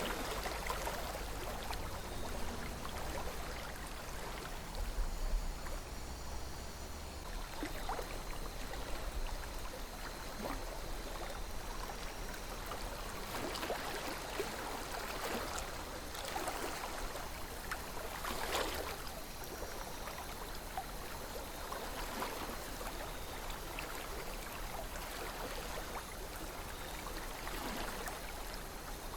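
Calm river flowing: a steady rush of water with scattered brief gurgles and splashes, one of the brightest about two-thirds of the way in, over a low rumble.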